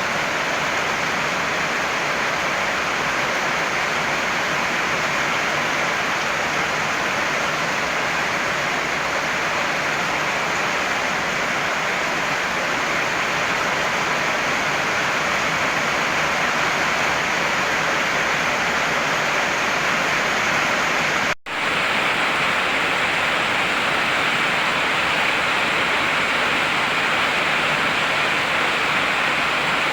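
Steady heavy rain, a dense even hiss. About two-thirds of the way through it cuts out for an instant, then carries on slightly duller in the highs.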